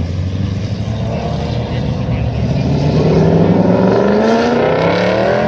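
Car engine revving up under acceleration over a low rumble, its pitch climbing steadily through the second half.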